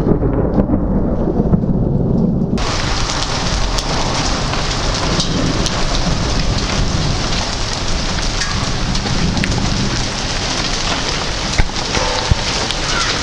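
Thunderstorm: thunder rumbling low, then about two and a half seconds in a heavy rain's steady hiss starts abruptly and carries on, with raindrops ticking.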